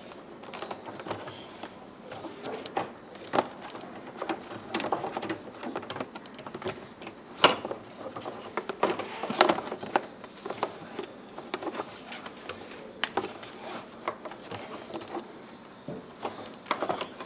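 Irregular clicks, taps and rustling as plastic interior trim pieces and electrical connectors are handled and fitted together. Two sharper knocks stand out about halfway through.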